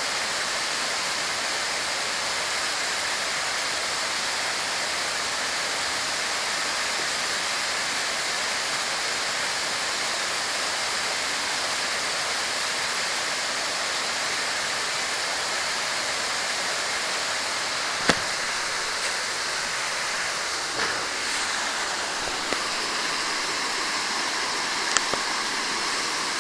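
Waterfall rushing steadily, a continuous even roar of falling water. A sharp click cuts through about two-thirds of the way in, with a few fainter clicks after it.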